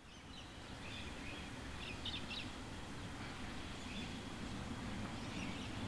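Small birds chirping in short bursts over a steady low outdoor rumble, fading up over the first second.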